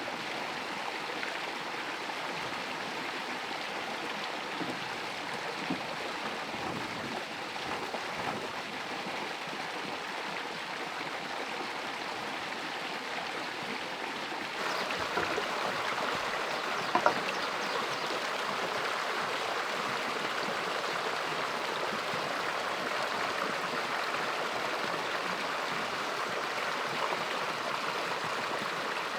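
Running water, a steady rushing stream. It gets suddenly louder and brighter about halfway through, and a single sharp knock comes a couple of seconds later.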